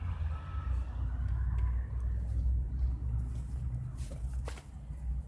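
Low, steady rumble of a large vehicle's engine, with a reversing alarm sounding one last beep in the first second.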